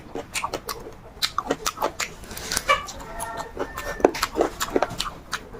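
Close-miked eating: wet chewing and lip-smacking clicks of someone eating chicken feet curry with rice, with a few brief whine-like tones near the middle.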